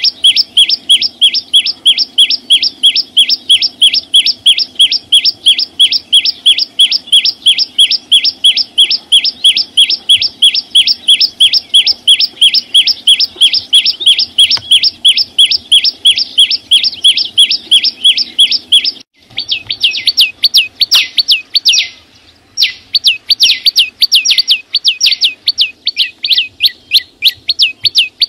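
A small songbird (the Vietnamese 'chim sâu xanh') calling loudly in a rapid, even string of sharp high chirps, about four or five a second. About 19 seconds in it breaks off briefly and resumes in quicker, more ragged runs with a short pause.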